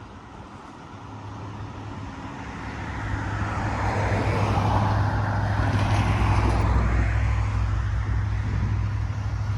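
Diesel freight locomotive approaching: its low engine rumble builds over the first few seconds and then holds steady, under a rushing noise that swells and eases off in the middle.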